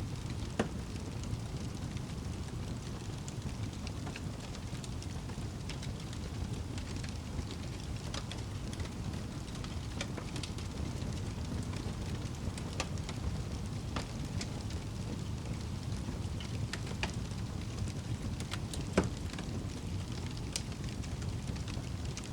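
Wood fire burning with a steady low rumble and scattered crackles and pops. One louder pop comes about half a second in and another near the end.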